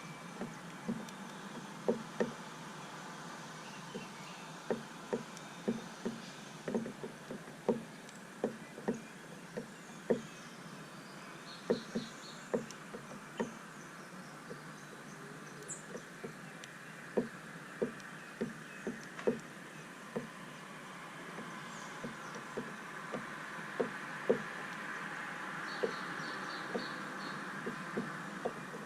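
Birds pecking seed at a feeder: irregular sharp taps, at times several a second, with a few faint short chirps.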